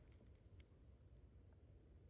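Near silence, with only a faint low rumble and a few tiny ticks.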